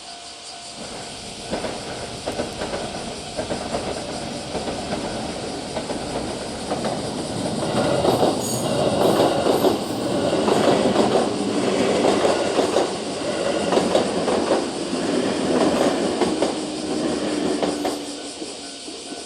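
JR West 221 series electric train passing over a level crossing: its wheels clatter over the rail joints, building up, loudest through the middle, then fading as it goes by.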